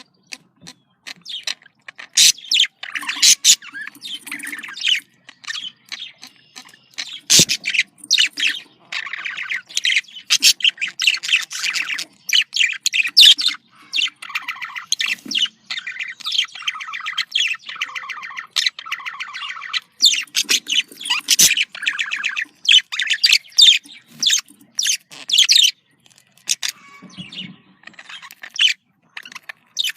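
Budgerigars chattering in courting chatter: rapid chirps, squawks and warbling runs, with brief pauses in between.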